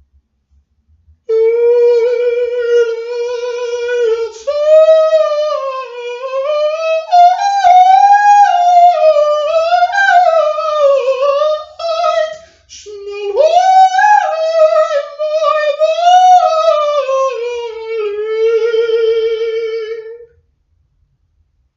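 A single high voice sings a wordless, wavering melody with vibrato, unaccompanied. It starts about a second in, breaks briefly about halfway through, and stops shortly before the end.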